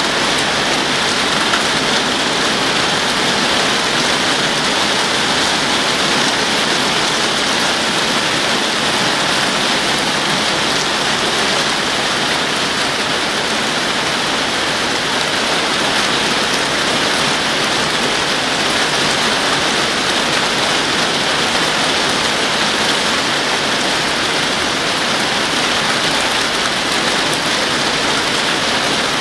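Heavy rain shower pouring down steadily, a loud, even hiss of rain on paving and roofs.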